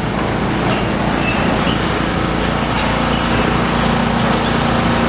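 Demolition excavator's diesel engine running steadily as the machine repositions, with a low hum that grows stronger about halfway through.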